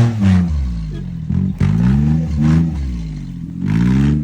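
Kei truck's small engine pulling away under acceleration, its pitch climbing and dropping back several times, with a short knock about a second and a half in.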